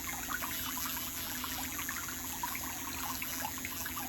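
Water trickling steadily in many small quick splashes, over a steady low hum.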